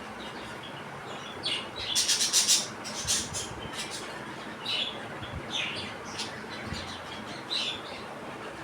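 Young budgerigars chirping in short scattered calls, with a quick run of sharp clicks about two seconds in, the loudest moment.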